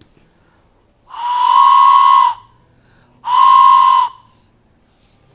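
A toy whistle blown twice: two loud, steady, breathy single-pitch blasts, the first lasting just over a second and the second slightly shorter.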